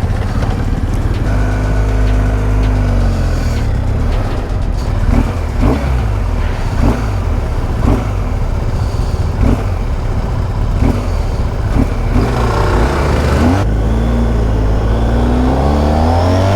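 Motorcycle engine accelerating hard through the gears, its pitch climbing and then dropping at each shift several times over, with a loud rush under it.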